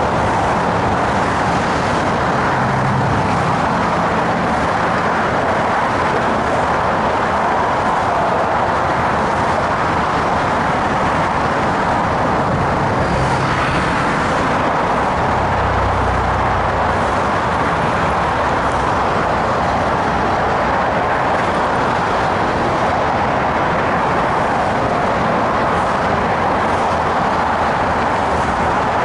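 Steady road traffic noise from cars passing close by on a bridge roadway, with brief low rumbles from heavier vehicles.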